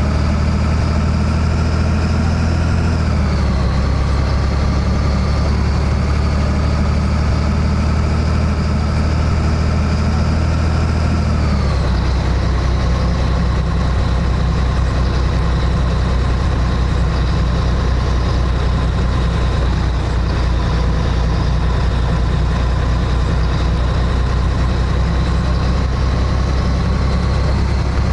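Scania 113H truck's diesel engine running steadily. Its engine speed drops twice, about three seconds in and again near twelve seconds, then holds steady.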